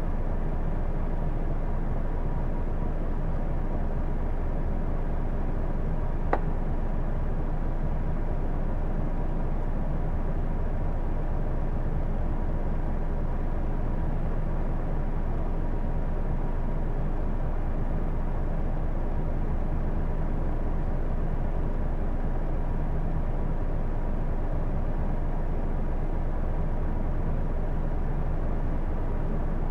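Cabin sound of a Hino Blue Ribbon II city bus running steadily: an even low engine-and-road drone with a thin, steady high tone above it. A single sharp click about six seconds in.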